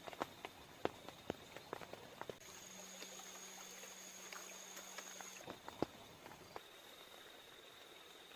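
Faint, irregular ticks and taps over a steady outdoor hiss, with a thin high insect-like tone throughout; from about two and a half seconds in, a steady hum with a high whine joins for about three seconds, then stops.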